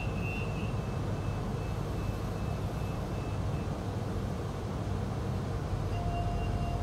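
Freight train passing, heard from inside a stationary passenger train's carriage as a steady low rumble of its wagons rolling by. A faint high whine fades out about halfway through.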